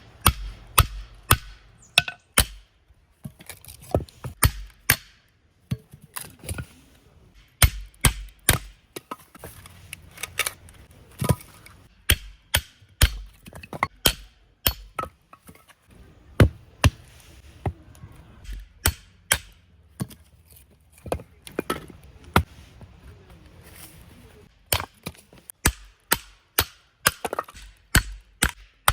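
Hatchet chopping and splitting firewood: a long run of sharp wooden knocks, irregularly spaced, often two or three in quick succession.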